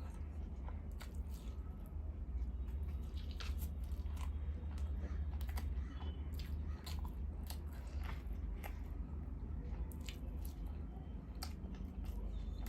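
A person chewing and biting food close to the microphone, mukbang-style, with irregular sharp clicks and crunches. A steady low hum runs underneath.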